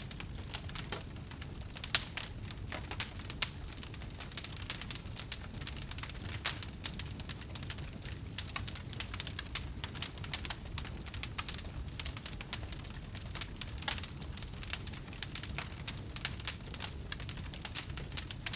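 Wood fire crackling, with dense irregular snaps and a few louder pops over a steady low rumble.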